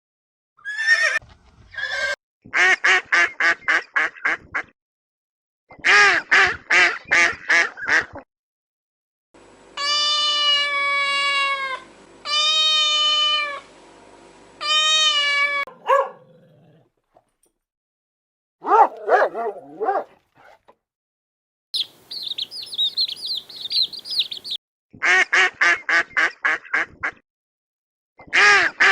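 Farm animal calls in a string of short clips: runs of rapid repeated calls at about four a second, three long drawn-out calls in the middle, and a high warbling chorus near the end.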